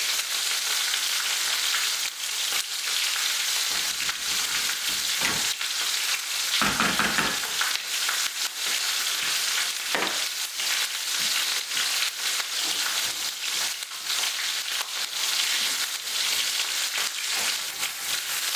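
Curry sauce frying in a pan with a steady sizzle, just after natural yogurt has been stirred in, while it is stirred with scattered knocks and scrapes of the utensil against the pan.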